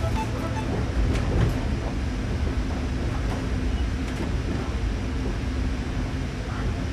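Narrow-gauge electric train running slowly, heard from the driver's cab: a steady low rumble of wheels on rails, with a couple of sharp clicks about a second in.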